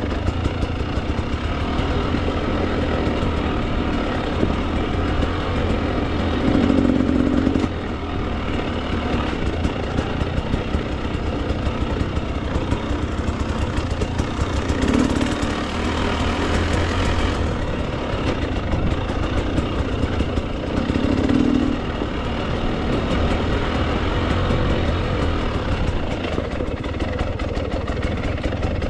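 Husqvarna TE 300 two-stroke enduro dirt bike engine running at low trail speed, with three short bursts of throttle spread through.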